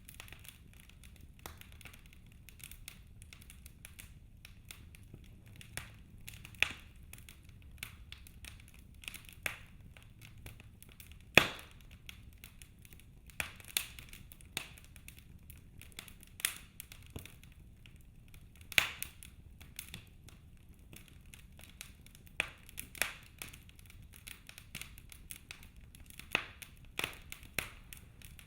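Wood logs burning in a fireplace, crackling with irregular sharp pops and snaps, a few loud among many faint, over a low steady rumble of the fire.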